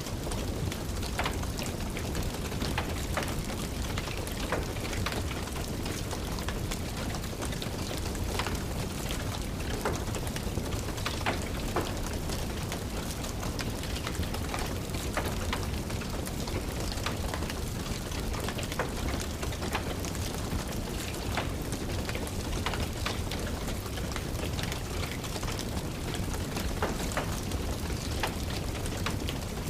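Steady rain mixed with a crackling wood fire in a fireplace. The irregular snaps and pops of the fire sit over an even rain hiss and a low, steady rumble.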